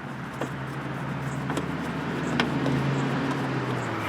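A low steady hum that swells a little and then eases off near the end, with a few light clicks scattered through it.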